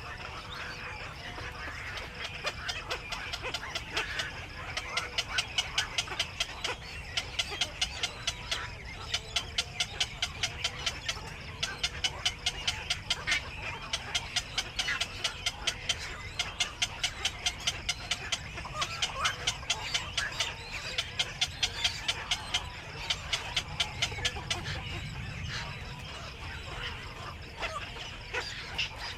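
Black-crowned night herons at the nest giving a long run of sharp clucking clicks, about three or four a second, starting about four seconds in and stopping near the end.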